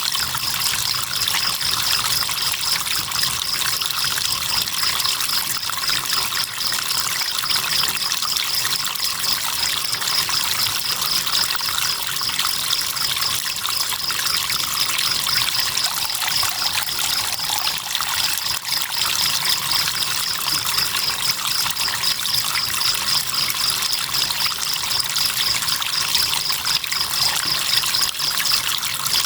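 River water trickling and flowing in a steady hiss, with crickets chirping in a fast, even pulse of high notes that breaks off briefly past the middle.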